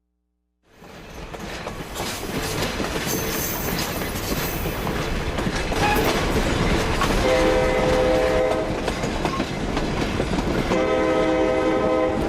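Passenger train running on the rails, its locomotive horn sounding two long blasts, the first about seven seconds in and the second near the end.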